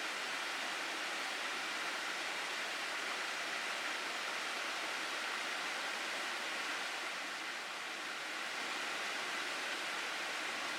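Water flowing in a mountain gorge stream, a steady, even rush with no break or change.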